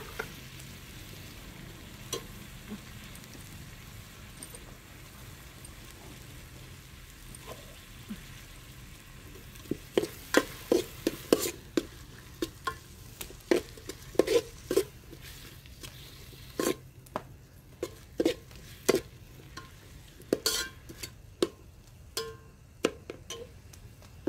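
Chopped onion and tomato frying in an aluminium pot with a faint steady sizzle. From about ten seconds in, a metal spoon scrapes and clinks against the pot in quick, irregular strokes as the mix is stirred.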